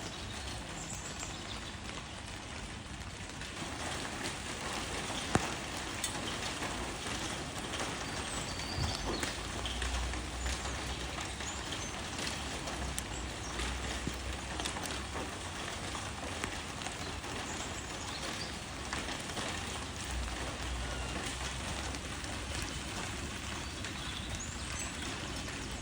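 Steady rain falling on leaves: an even hiss scattered with small drop taps, and one sharper tap about five seconds in. A low rumble comes and goes underneath.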